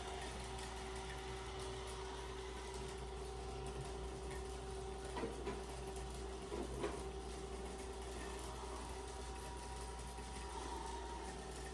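Xiaomi S40 robot vacuum running with a steady motor whine, on its first mapping run through the house. A few light knocks come about five and again about seven seconds in.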